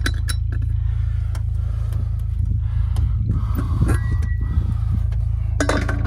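Vehicle engine idling with a steady low rumble, with scattered light clinks and clicks over it.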